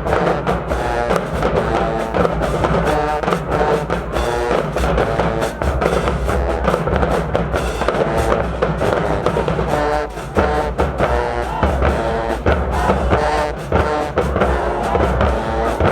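High school marching band playing: brass chords over a drumline with bass drums and snares.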